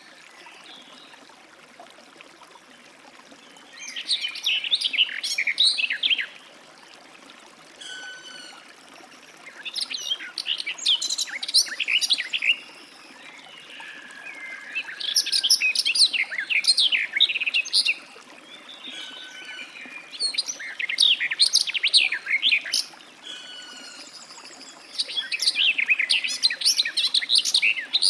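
Garden warbler singing: five bursts of rapid warbling, each two to three seconds long, with pauses of a few seconds between them. Faint thin notes from other birds sound in the gaps.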